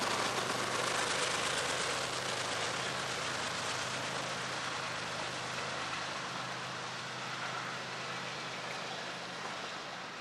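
Freight train cars rolling past on steel rails: a steady rumble and hiss of wheels on track that slowly grows quieter.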